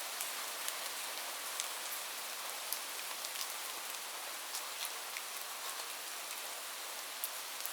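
Steady rain: an even hiss with scattered individual drops ticking sharply throughout.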